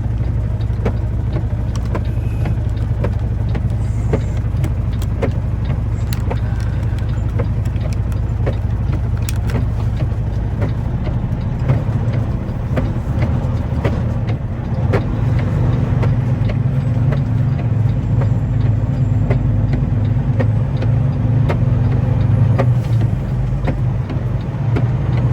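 Semi-truck engine and road noise heard inside the cab while driving: a steady low drone that grows a little louder in the second half, with frequent small clicks and rattles.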